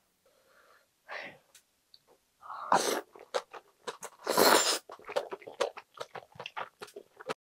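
Close-miked eating sounds of a strip of aged kimchi: two loud noisy bites about a second and a half apart, the second the loudest, then rapid wet, crunchy chewing.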